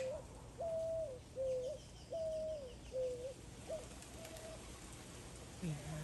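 A bird calling a series of clear, even-pitched notes that alternate higher and lower, roughly one note every 0.7 s, fading out about four seconds in. A second bird chirps faintly and high-pitched in the background.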